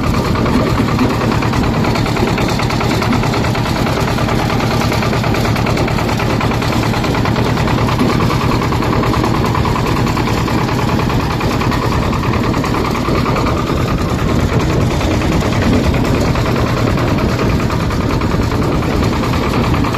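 Swaraj 724 tractor's two-cylinder diesel engine running steadily with a rapid, even knocking beat, heard from on board while it drives along.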